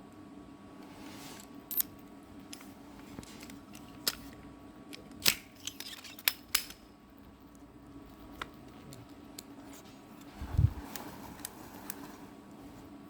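Scattered sharp clicks and clacks of a nail gun and river rocks being handled, with one heavier, deeper thump about ten and a half seconds in.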